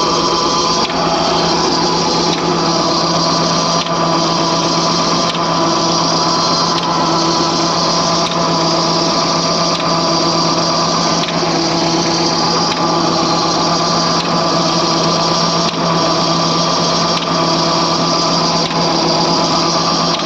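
Escorts Jawan MPT 25 hp tractor's diesel engine running at a steady speed while driving a water pump, with a faint regular tick about every second and a half.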